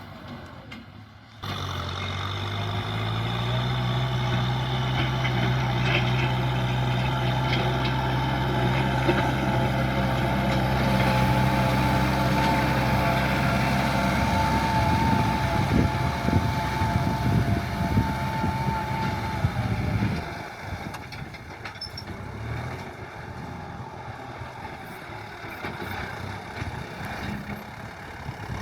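John Deere tractor's diesel engine running steadily under load while ploughing a paddy field. After a brief quieter gap at the start it comes in and its pitch climbs a little, then about twenty seconds in it drops and grows quieter.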